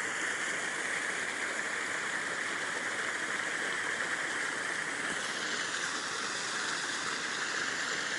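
Steady rush of running water, even and unbroken, with the hiss easing slightly about five seconds in.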